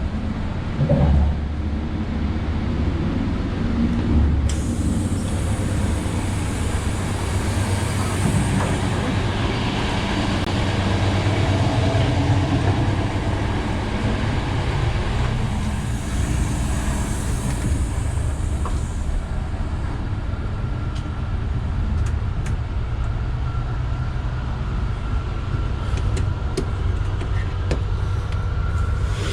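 Running noise inside a coach of a loco-hauled Trenitalia Intercity train on the move: a steady low rumble, with a brighter hiss that comes in about four seconds in and drops away a little past the middle.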